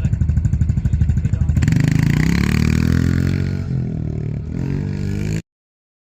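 Motorcycle engine running with a regular pulsing beat, then revving up about a second and a half in, its pitch rising and then easing off slightly; the sound cuts off abruptly near the end.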